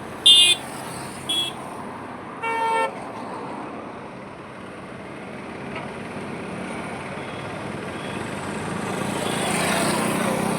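Highway traffic with vehicle horns: two short, high honks in the first second and a half, then a longer, deeper horn about two and a half seconds in. Under the horns is a steady rumble of passing vehicles, which swells near the end as a vehicle goes by.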